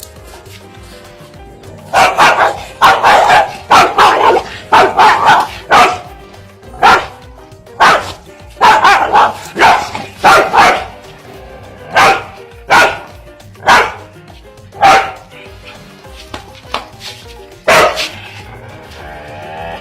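Dog barking over and over in short, sharp barks, fast runs of them at first and then single barks a second or so apart, over steady background music.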